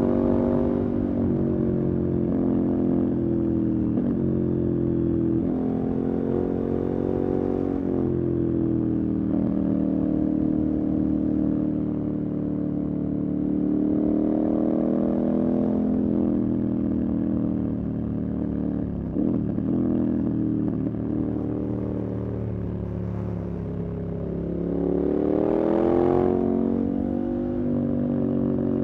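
Motorcycle engine running under way, its revs climbing and dropping again and again as it pulls through the gears, with the strongest climb near the end.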